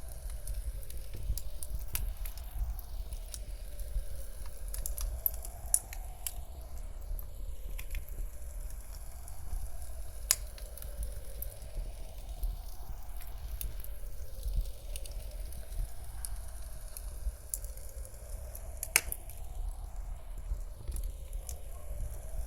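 Wood fire crackling, with irregular sharp pops and snaps over a steady low rumble of wind, the whole mix slowly sweeping around in a repeating '8D' panning effect.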